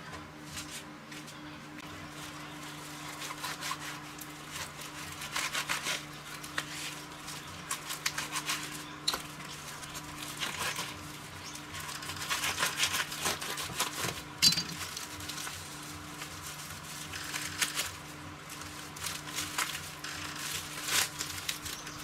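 Hand work on small parts: irregular clicking, scraping and rustling, with one sharp click about two-thirds of the way through, over a low steady hum.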